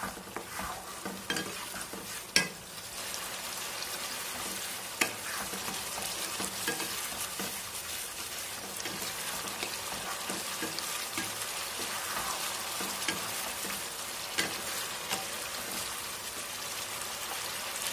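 Onion, ginger, garlic and tomato masala paste sizzling in mustard oil in a kadai as it is slow-fried (kosha) and stirred with a wooden spatula. A steady sizzle with the spatula scraping through the paste and a few sharp knocks against the pan.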